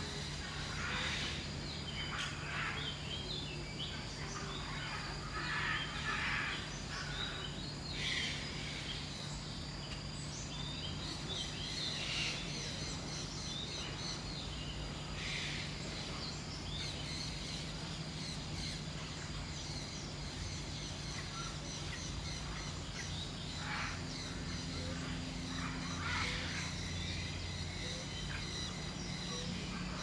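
Birds chirping and calling in short scattered bursts every second or two, over a steady low hum and a thin, steady high-pitched tone.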